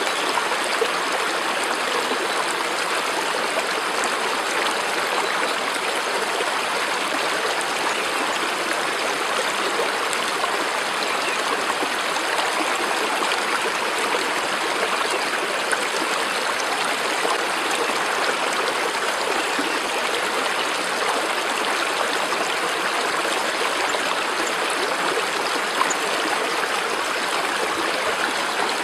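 Steady, unbroken rush of running water, like a stream.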